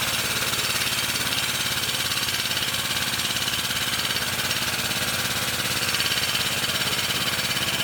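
Power tool running steadily with a fast, even buzz, then stopping near the end.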